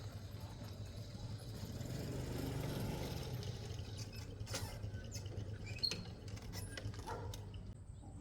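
A motor vehicle's engine running with a steady low hum that swells about two to three seconds in and then eases, with a few light clicks and knocks near the end.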